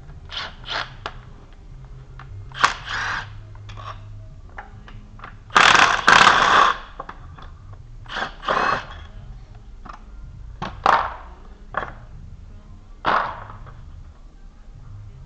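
Metal hand tools and engine parts clanking and scraping in scattered short knocks, with a louder, longer rattling scrape about six seconds in.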